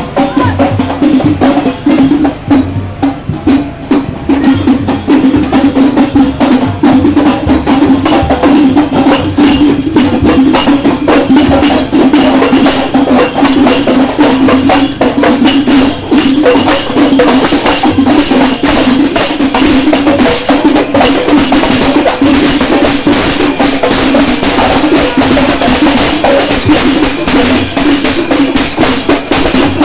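Loud music with busy, fast percussion, played through a large parade sound system.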